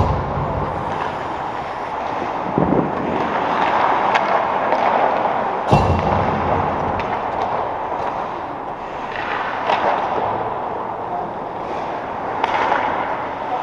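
Echoing arena noise: a steady background din broken by about five sharp bangs that ring briefly in the hall, spaced a few seconds apart.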